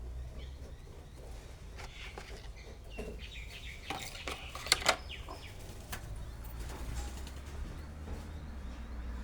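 Birds calling and chirping over a steady low rumble, with two sharp knocks in quick succession about halfway through.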